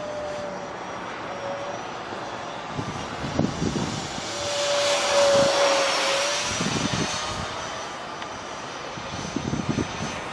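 Electric ducted-fan RC jet (Dr Mad 68mm unit with a 10-bladed fan) flying past: a steady whine and rush that grows louder about halfway through, then fades away, with wind buffeting the microphone.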